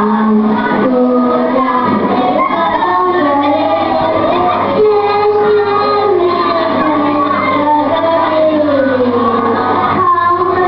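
Children singing a song with music, the notes held and gliding, over a steady low hum.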